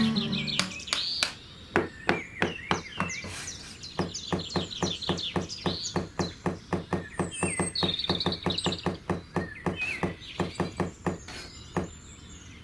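A metal bricklaying trowel scraping and patting across sand in quick, short strokes, about four a second. Birds chirp throughout.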